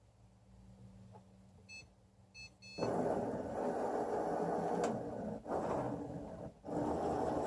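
Excalibur Mirage robotic chess computer giving a few short electronic beeps as it announces its move. About three seconds in, the motors of its robotic arm start whirring as the electromagnetic head travels across the board. The whirring stops briefly twice and starts again.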